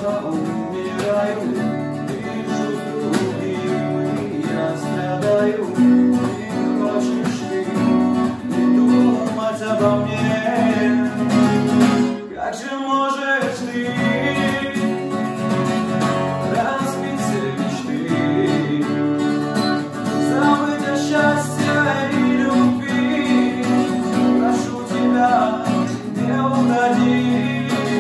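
A song with acoustic guitar strumming and a voice singing, with a short break about twelve seconds in.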